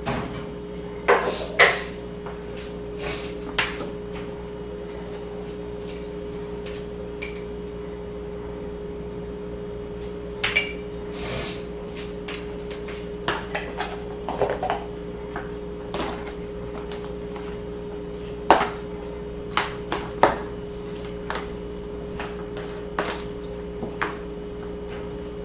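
Kitchen clatter while seasoning chicken drumsticks: scattered knocks and clinks of a spoon, containers and a bowl, irregularly spaced, over a steady low hum.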